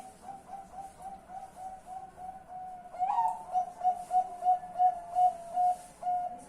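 Zebra dove (perkutut) cooing: a fast run of short, even coos on one pitch, about three or four a second, growing louder about halfway through.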